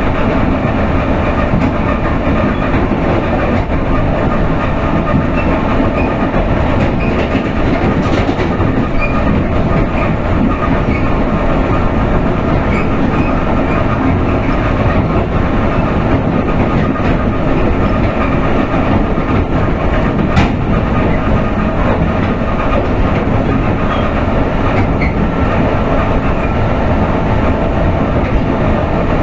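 Interior of a Russian elektrichka (suburban electric multiple-unit train) running at speed, a steady rumble of wheels on rail with faint clicks.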